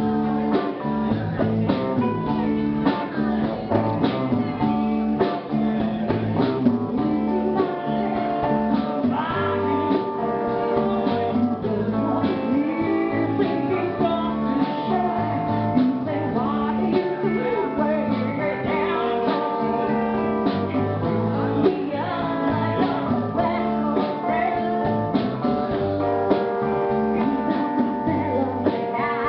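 A live band playing, with guitar to the fore.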